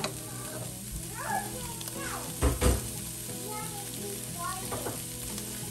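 Diced ham and scrambled egg frying in a nonstick pot, a steady sizzle, with a spatula stirring the mix. A single knock sounds about two and a half seconds in.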